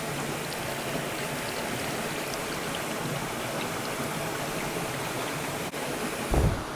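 Mountain stream water rushing steadily, with a brief low thump near the end.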